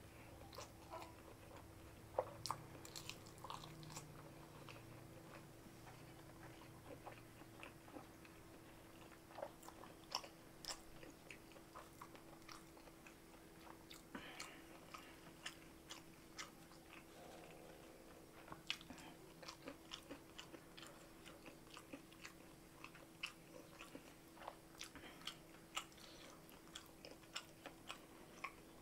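Eating sounds from a person eating rice and jengkol stew by hand: many faint, sharp mouth clicks and wet chewing smacks at irregular intervals, over a faint steady hum.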